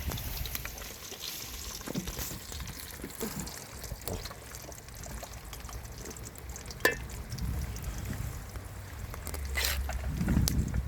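Water trickling and splashing, with scattered small clicks and knocks and a sharp click about seven seconds in, over a low rumble that swells near the end.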